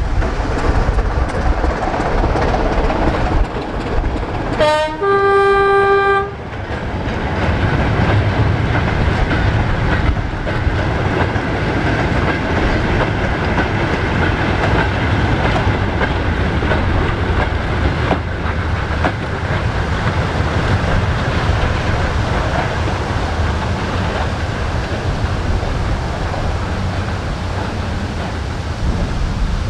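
A diesel-hauled goods train of short wagons running past with a steady low rumble of engine and rolling wheels. The diesel locomotive gives one horn blast of about a second and a half, about five seconds in.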